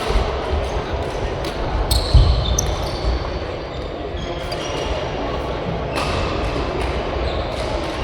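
Badminton play on an indoor court: sharp racket hits on the shuttlecock, short high squeaks of shoes on the court floor and heavier footfalls.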